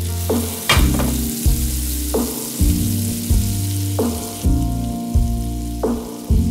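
Sliced onion and garlic sizzling in hot oil in a frying pan as a wooden spatula stirs them, over background music with repeated notes and a steady bass. The sizzle drops away about two-thirds of the way through.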